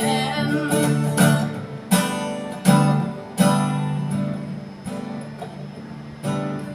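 Acoustic guitar strumming chords in a song, a sung line ending just after the start and leaving the guitar alone, each strum fading before the next.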